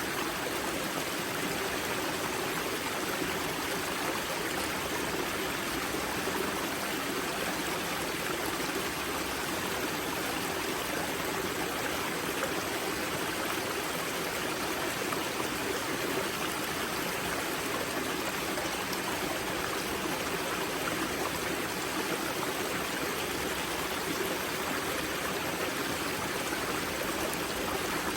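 Spring-fed mountain stream at its source, water rushing and splashing over rocks in a steady, even flow.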